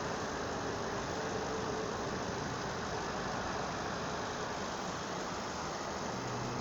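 Steady highway vehicle noise: engines running and tyres rumbling, even and unbroken.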